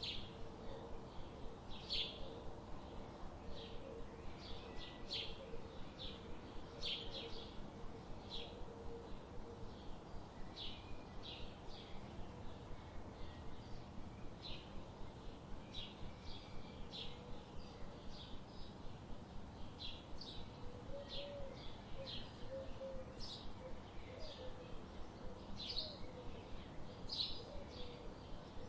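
Songbirds chirping: short, high chirps follow each other a few times a second, with a fainter, lower warbling call heard at times, over a steady background hiss.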